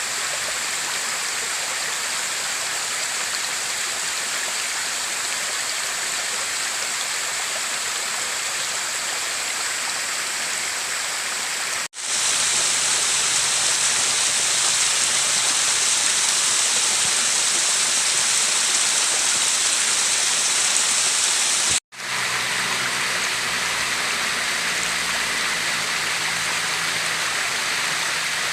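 River water flowing with a steady rushing sound. It cuts out abruptly twice, about twelve and twenty-two seconds in, and comes back each time a little louder or softer.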